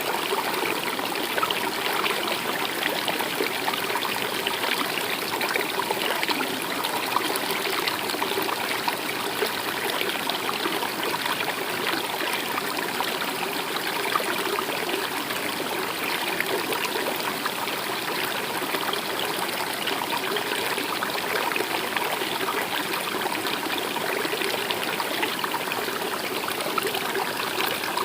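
Flowing stream water, a steady rushing and trickling that does not change.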